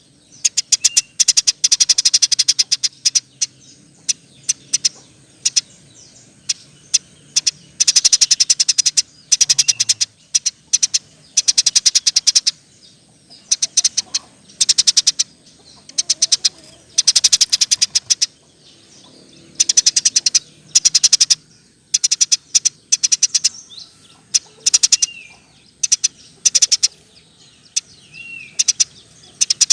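Eurasian tree sparrow chirping in rapid-fire rolls: trains of fast, sharp, high chirps, each burst lasting up to about a second and a half, repeated with short gaps.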